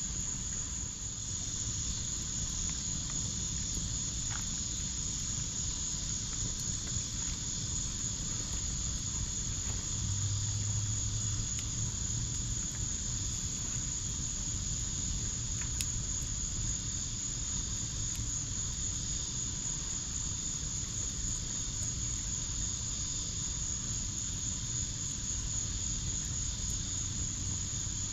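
Crickets trilling steadily in a high, continuous chorus, with a couple of faint pops from a backyard fire pit.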